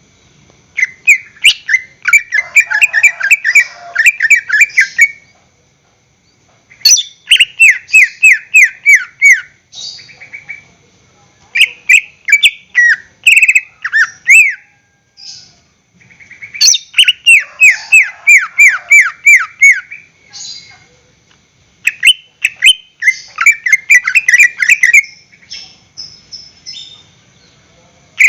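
Cucak ijo (greater green leafbird) singing: about five loud phrases of rapid chattering notes, each a quick downward sweep, several a second, separated by short pauses, with a faint steady high-pitched whine behind.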